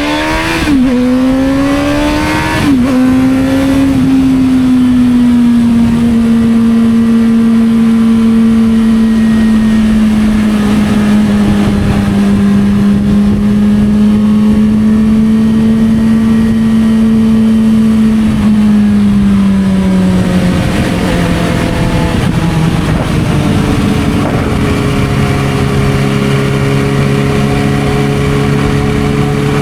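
Suzuki GSR600's inline-four engine through a Dominator aftermarket exhaust, heard on the move: it revs up through two quick gear changes, then holds a steady drone while cruising. Around two-thirds of the way through, the pitch falls as the bike slows, settling to a lower steady note near the end.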